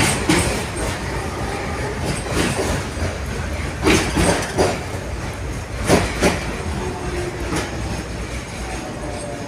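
71-631 tram running along the track: a steady low rumble, with the wheels knocking over rail joints, often in pairs, about a dozen times. A faint tone slopes slightly downward near the end.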